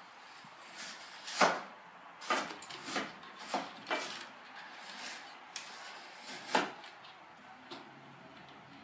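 A series of sharp knocks and bangs, about six of them, with the loudest about a second and a half in and another strong one near the end.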